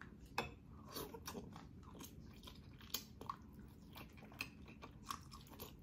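Close-up mouth sounds of a person biting and chewing a piece of boiled pork hock (nilagang pata): faint, scattered wet clicks and smacks.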